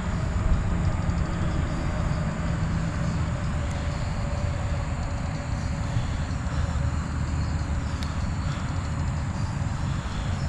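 A steady low engine rumble from a machine running without change.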